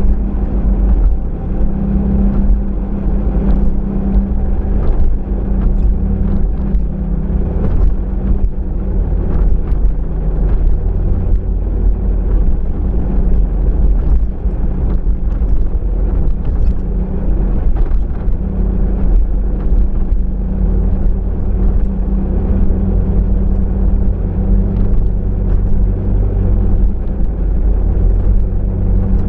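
Steady low rumble of a car's engine and tyres on the road, heard from inside the cabin while driving, with faint scattered ticks.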